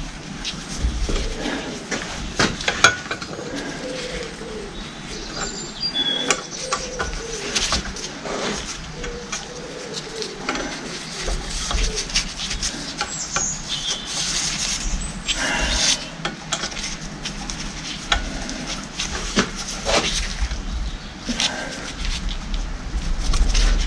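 Scattered clicks, knocks and clinks of hand tools and metal hydraulic-pump parts being handled while a fitting is drawn up tight.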